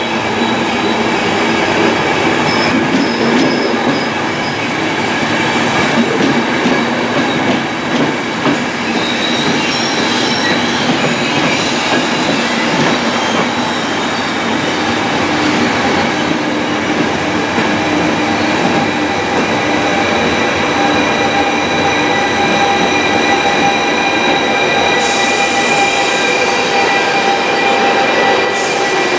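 Trenitalia Intercity coaches and their FS Class E464 electric locomotive rolling slowly past over station track. The steel wheels squeal with several steady high-pitched tones over a running rumble and some clatter over rail joints. Near the end the locomotive itself passes, its cooling fans adding a whirring hiss.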